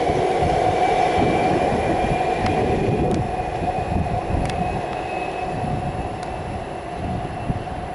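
Siemens electric suburban train pulling away, its motor whine rising slowly in pitch as the rumble of the train fades, with a few faint clicks.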